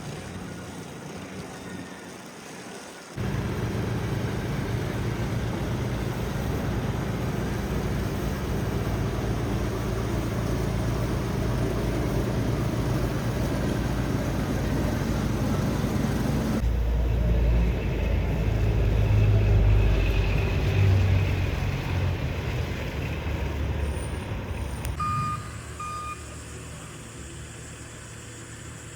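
Street traffic dominated by a large vehicle's engine running close by, a steady low drone that sets in suddenly a few seconds in and deepens into a heavier rumble past the middle. Near the end it falls back to quieter street noise with two short beeps.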